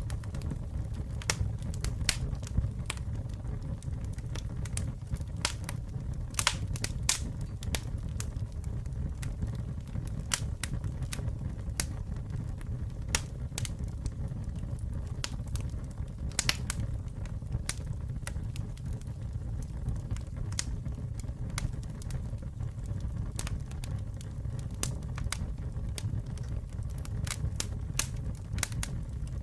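Campfire burning, with irregular sharp crackles and pops of burning wood over a steady low rumble. A few pops stand out louder, around a quarter and just over half of the way through.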